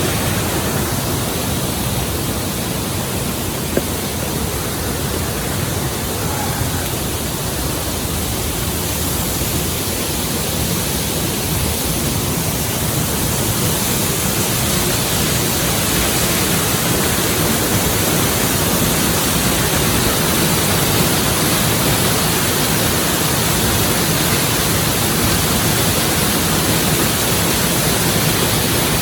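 Steady, even rushing noise with no distinct events, and a single faint click about four seconds in.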